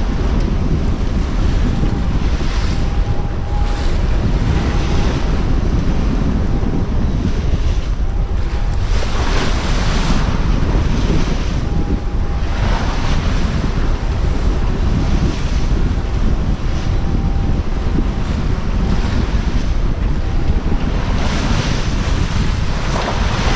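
Wind buffeting the microphone over the rush of waves along a sailboat's hull as she beats to windward into rough seas, with several louder surges of breaking water and spray.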